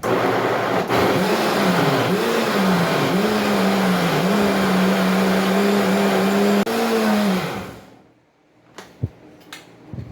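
Electric blender grinding fresh-cut corn kernels. The motor starts abruptly and its pitch wavers in the first few seconds as the blades chew through the load. It then runs steady and is switched off about seven and a half seconds in, winding down.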